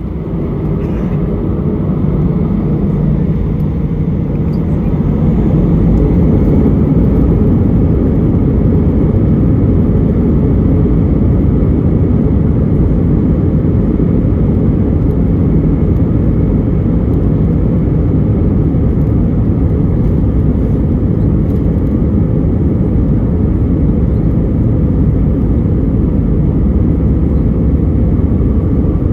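Airbus A320's jet engines at takeoff power, heard inside the cabin as a loud, steady, deep noise. It builds over the first few seconds, then holds steady through the takeoff roll and climb-out.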